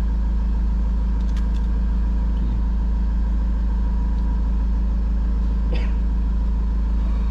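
A motorhome's diesel engine idling steadily: a constant deep hum with an even tone.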